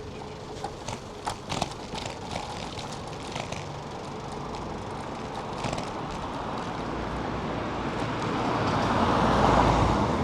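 City street traffic with a few sharp clicks and rattles in the first few seconds, then a passing vehicle's noise that swells up and peaks near the end.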